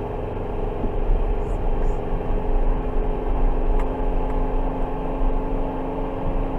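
Steady car engine and road noise: a low rumble with a constant hum that stays unchanged throughout.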